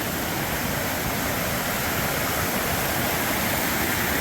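Fast-flowing stream rushing steadily over rocks at a ford.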